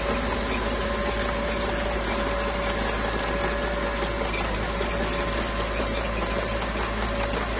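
Small crawler bulldozer's diesel engine running steadily, with a faint held tone over the machine noise and light ticking.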